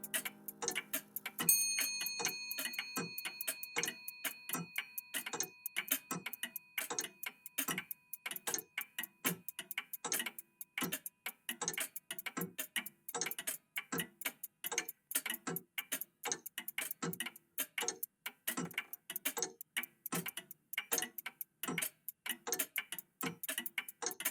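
Several old mechanical clocks ticking together, their ticks overlapping in an uneven pattern of several a second. About a second and a half in, a single bell-like chime strikes once and rings slowly away.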